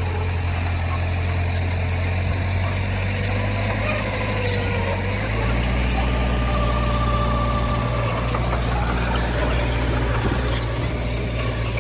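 Heavy-equipment diesel engine running steadily, its note changing about five seconds in.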